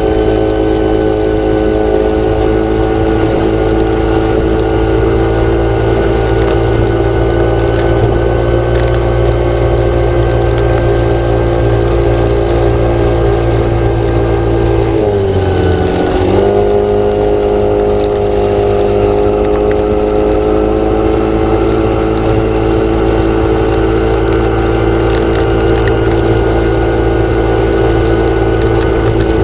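A small engine or motor running steadily at a constant speed. About halfway, its pitch dips for about a second, then climbs back to the same steady note.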